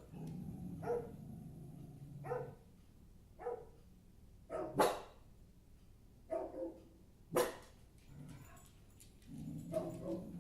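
A dog barking in single, separate barks, about nine in all, roughly a second apart.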